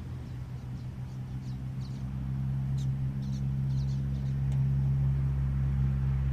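A series of short, high, squeaky bird chirps, about a dozen in the first four and a half seconds, over a steady low hum that grows a little louder.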